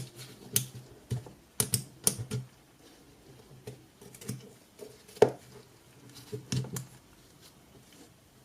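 Irregular clicks and taps of small plastic and metal parts being handled while a cordless screwdriver is taken apart, with one louder knock about five seconds in.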